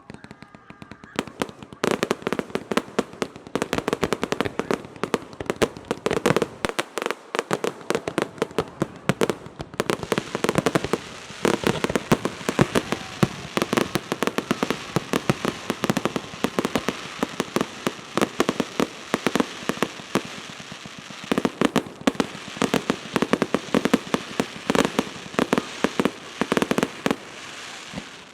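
Fireworks crackling: a dense, rapid run of sharp pops going on for over twenty seconds, thinning briefly about seven seconds in.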